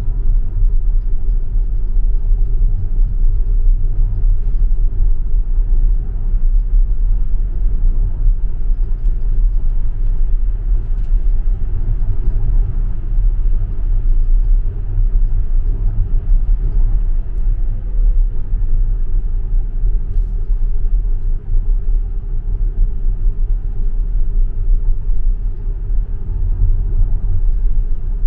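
Steady low rumble of a Tesla electric car driving through an underground tunnel, heard from inside the cabin: mostly tyre and road noise.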